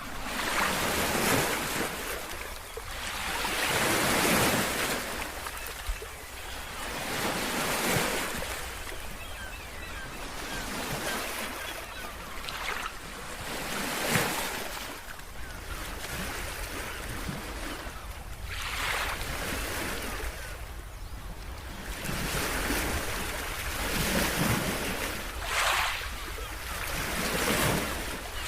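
Ocean waves breaking on a shore. Each wash of surf swells and fades again every few seconds.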